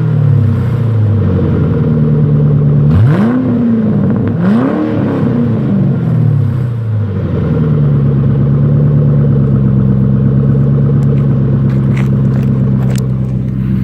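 2008 Mustang GT/CS's 4.6-litre V8 through a Pypes Bomb exhaust, dropping back to idle, blipped twice in quick revs about three and four and a half seconds in, then settling into a steady idle.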